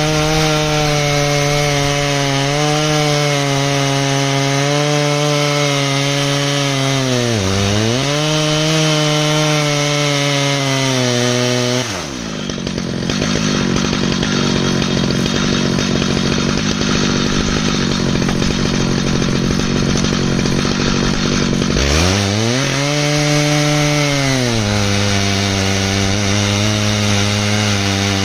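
Stihl MS881 two-stroke chainsaw in an Alaskan chainsaw mill, running at high revs as it rips through an ash log. Its pitch dips briefly about seven seconds in, drops much lower for about ten seconds from the middle, then climbs back up to full revs.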